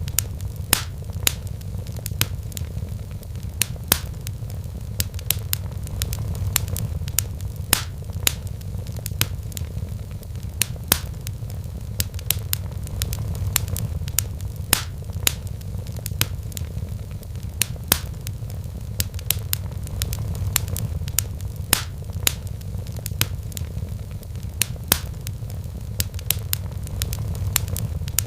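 Wood fire in a fireplace crackling: irregular sharp pops, several a second, over a steady low rumble.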